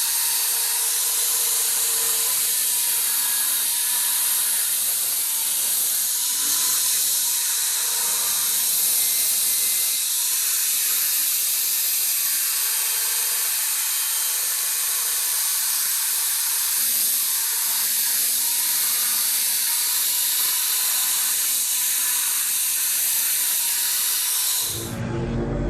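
Steady, loud hissing from a workshop tool, with a faint steady whine underneath; it cuts off suddenly near the end.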